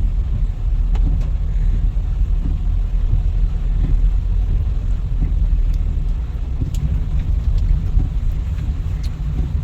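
Car driving slowly, heard from inside the cabin: a steady low rumble of engine and road noise, with a few faint ticks.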